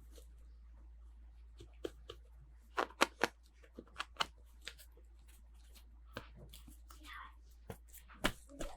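Irregular light clicks, taps and rustles of hands unpacking small plastic toys and their packaging, with a cluster of sharper clicks about three seconds in.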